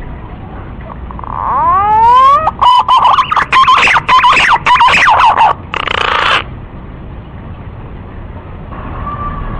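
Green pigeon (Treron) song: rising, wavering whistles that break into a quick run of warbled whistled notes, ending in a short harsh burst. A second song begins rising near the end.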